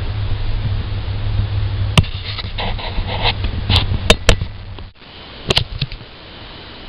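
A series of sharp clicks and knocks, several close together, over a steady low hum that cuts off suddenly about five seconds in.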